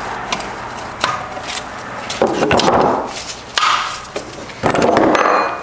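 Hand tools and metal parts knocking and scraping on a Subaru six-speed transmission during teardown: a few sharp knocks, and two longer scraping rubs, one in the middle and one near the end.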